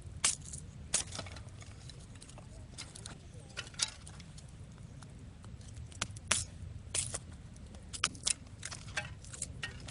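Small wood campfire crackling: irregular sharp snaps and pops, a few clustered together, over a steady low rumble.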